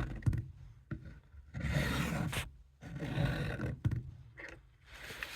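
A vintage Camillus fixed-blade knife drawn across a sharpener at a 20-degree angle, a few rasping strokes about a second long each.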